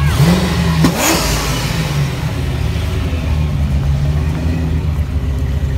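Fox-body Ford Mustang revving as it pulls away: the engine note rises in pitch and peaks in a loud burst about a second in. A second car's engine follows, rising again near the middle.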